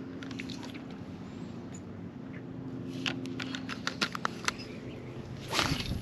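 Spinning rod and reel being worked for a cast: a quick run of sharp clicks from the reel, then a swishing whoosh of the rod and line near the end. A steady low hum runs underneath.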